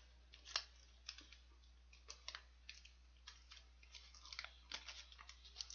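A person biting and chewing a Lotte Custard, a soft cream-filled sponge cake: faint, scattered small clicks and mouth sounds, a few a second.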